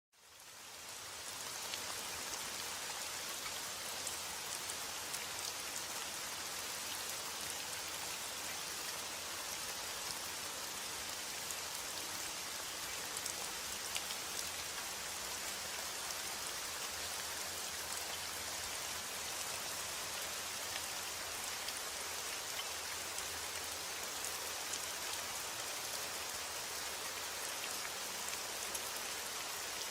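Steady rain falling, a dense even patter of drops on a surface with many small ticks of individual drops. It fades in over the first second or two and then holds steady.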